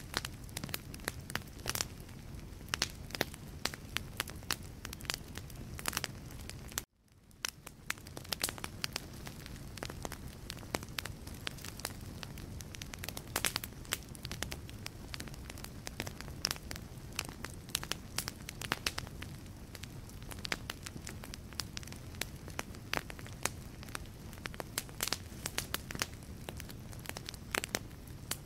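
Logs burning in a fireplace, crackling with frequent irregular sharp pops over a low, steady rumble of flame. About seven seconds in, the sound cuts out for an instant and fades back in.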